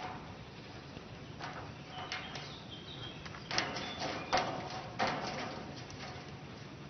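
A series of irregular sharp clicks and knocks, about six, the loudest in the middle of the stretch: a Goffin's cockatoo working wood or a stick tool with its beak.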